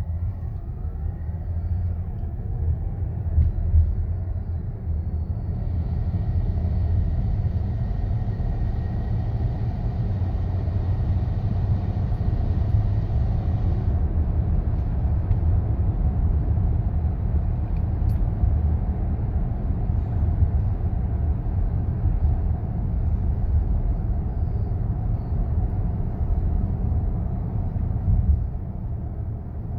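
Mazda CX-90 plug-in hybrid on the move with a steady low grinding rumble, the noise the owner reports between 20 and 40 mph. A faint high whine sits over it through about the first half.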